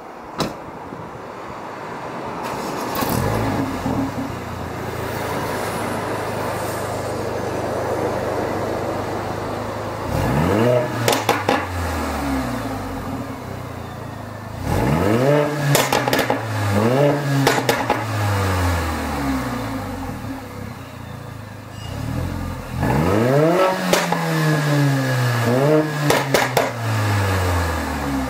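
Mercedes-AMG A45's turbocharged four-cylinder engine, through the AMG Performance Exhaust, running steadily at first. From about ten seconds in it is accelerating hard: the pitch rises and drops back at each upshift through several gears, twice over, with sharp cracks around the shifts.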